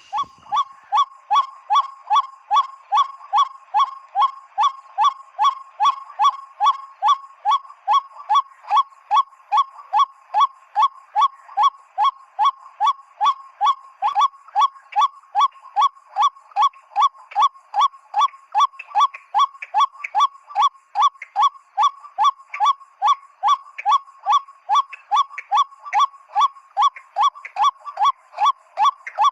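Homemade PVC-pipe waterhen caller blown in an unbroken run of loud 'kwak' notes, about two and a half a second, imitating the call of the ruak-ruak (white-breasted waterhen) to lure the birds.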